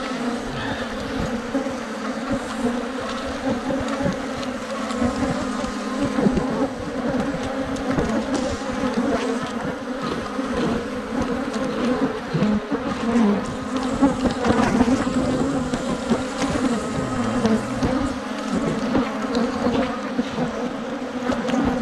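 Dense swarm of agitated Africanized honey bees buzzing around an opened hive, a steady loud drone of many wingbeats with pitch that wavers as individual bees fly close.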